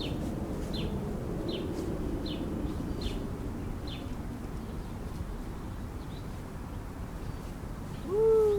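Hummingbird giving a series of short, high, falling chip notes, about one every 0.7 s, which stop after about four seconds, over a steady low hum. Just before the end comes a louder, short, low wavering call.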